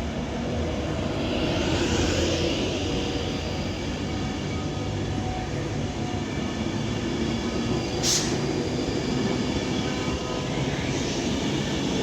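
Class 390 Pendolino electric train pulling away and accelerating, a steady rumble of wheels and traction with a passing hiss. A short, sharp, high click comes about eight seconds in.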